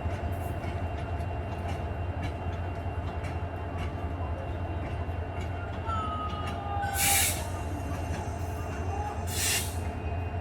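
Railway station platform sound with a steady low rumble from a standing train, scattered clicks and knocks, and two short, loud hisses of air about seven and nine and a half seconds in.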